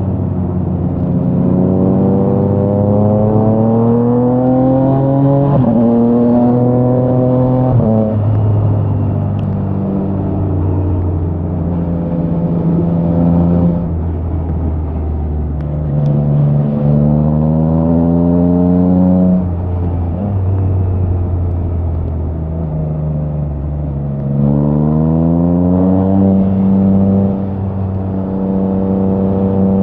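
Triumph Trident 660's three-cylinder engine through a Spark aftermarket exhaust, pulling hard three times with the pitch rising and dropping sharply at each upshift, and running more steadily between the pulls.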